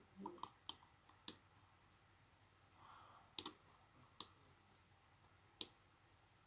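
Scattered sharp clicks of computer controls, about seven in all at uneven gaps, two of them close together in the middle, against a quiet room.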